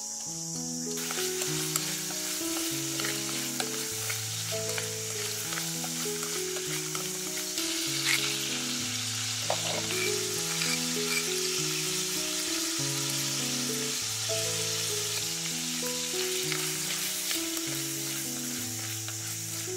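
Shrimp and garlic sizzling in hot oil in a frying pan, starting about a second in, stirred with a utensil with a few sharp clicks against the pan. Background music with a slow melody plays underneath.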